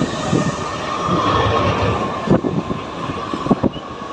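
Mumbai suburban local train, an electric commuter train, running on the rails: a steady rumble and rattle with a few sharp knocks.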